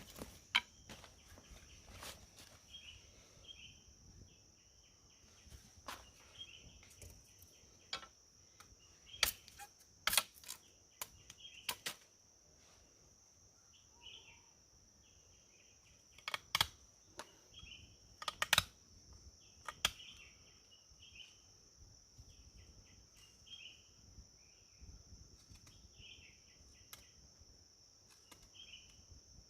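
A steady, high insect drone, with short repeated chirps and scattered sharp clicks and knocks, the loudest clicks about a third and two-thirds of the way in.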